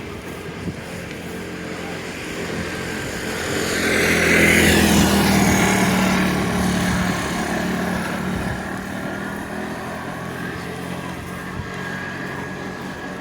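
A motor vehicle passes by, its engine and tyre noise building to a peak about four to five seconds in and then fading away.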